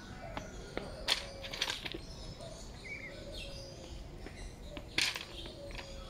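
Scattered short bird chirps and calls over a steady background hum, with two sharp clicks, one about a second in and one about five seconds in.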